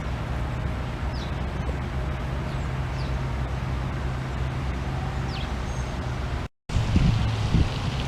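A few short, high, falling bird chirps over a steady low background rumble. Near the end the sound cuts out for a moment, then wind gusts buffet the microphone.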